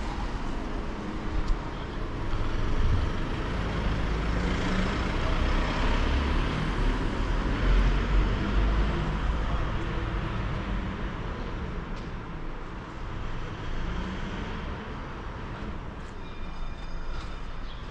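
A motor vehicle passing close by on a street, a low rumble that swells over the first several seconds and then slowly fades.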